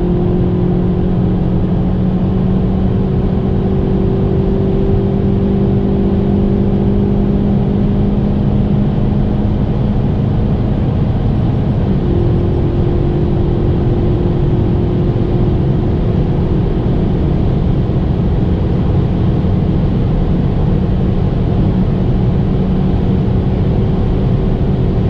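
Kia ProCeed GT's 1.6-litre turbocharged four-cylinder engine pulling under full throttle at high speed: a steady drone that climbs slowly in pitch, with a gear change by the seven-speed dual-clutch gearbox about halfway through. A constant rush of wind and road noise runs underneath.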